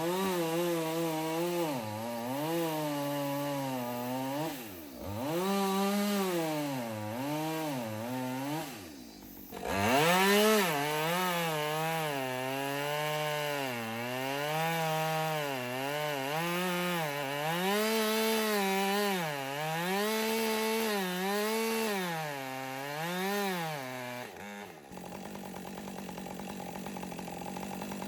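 Two-stroke chainsaw cutting through a dead poplar trunk, its engine note dipping and recovering over and over as the chain bogs in the wood and is revved again, with a brief drop about nine seconds in. For the last few seconds it settles to a steady idle.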